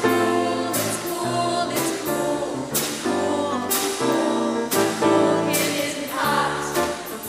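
Choir singing an upbeat song over an accompaniment with a steady beat of about one drum hit a second.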